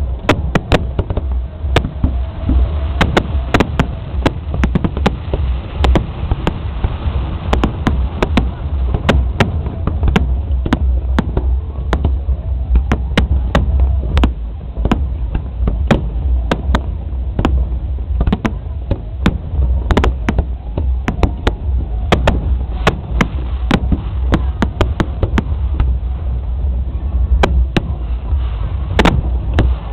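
Fireworks bursting in rapid, irregular succession, a dense run of sharp bangs several a second over a constant low rumble, with a crowd's voices underneath.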